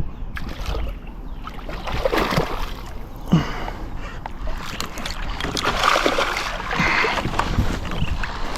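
Irregular splashing and sloshing of river water, with scattered sharp knocks, as a hooked bass is fought in.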